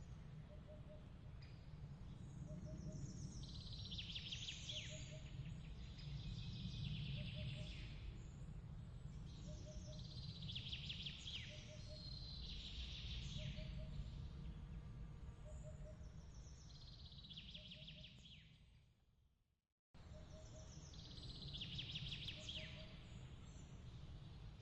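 Ambience of bird chirps recurring every two to three seconds over a steady low rumble, with a faint, evenly repeating double chirp beneath. Near the end the sound fades out to silence and cuts back in abruptly a second later.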